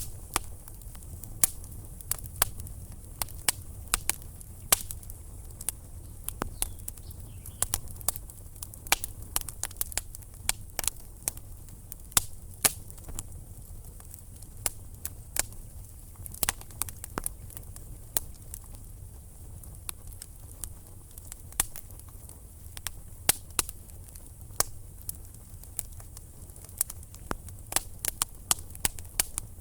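Logs burning in a fireplace, crackling with many irregular sharp pops and snaps over a steady low rush of the flames.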